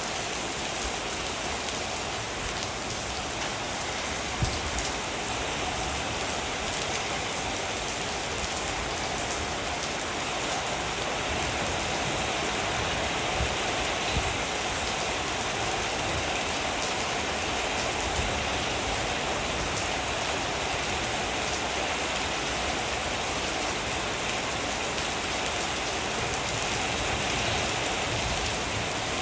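Heavy rain falling steadily, a dense even hiss of drops hitting surfaces, with an occasional louder single drop or tap.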